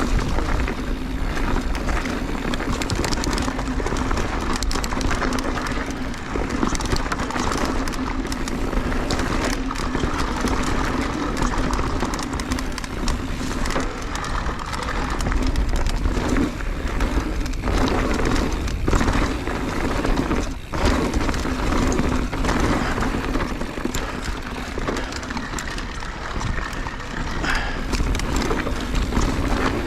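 Mountain bike riding fast down a rocky trail: a continuous roll of tyre noise broken by many short knocks and rattles as the bike goes over rocks.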